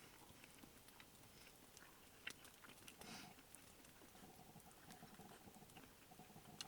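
Near silence with faint, scattered small clicks and ticks, one a little sharper about two seconds in.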